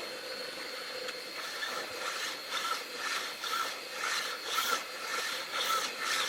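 Metal lathe running with a steady hum while steel is worked on the spinning square-bar workpiece. From about a second and a half in, rhythmic metal scraping strokes come about two a second.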